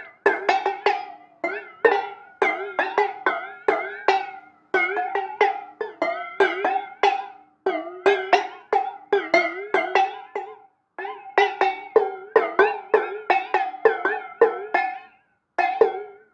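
Quick, sharply plucked or struck pitched notes, about four or five a second, played in short phrases with brief pauses between them, each note dying away fast.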